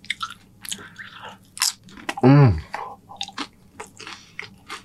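Crunchy loaded nachos being bitten and chewed close to the microphone: quick crackling tortilla-chip crunches. About halfway through comes a short hummed "mm" from the eater.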